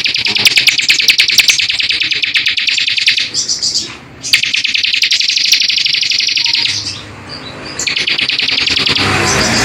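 A small songbird's fast, continuous chattering trill of rapid high notes, in three long runs broken by two short pauses. Near the end a lower, noisier sound joins in.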